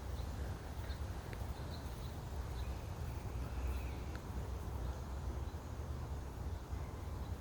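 Faint, scattered short bird calls over a low, steady rumble.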